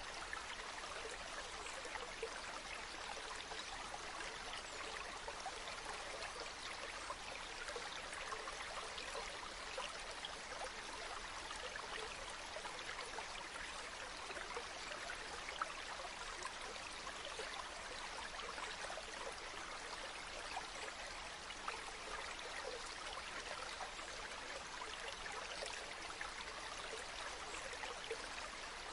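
Steady running water, like a shallow stream babbling over stones, an even rushing hiss with fine splashy crackles.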